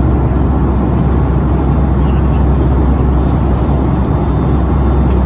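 Steady engine and airflow noise inside the cabin of a Boeing 757-200 in flight: an even low rumble that does not change.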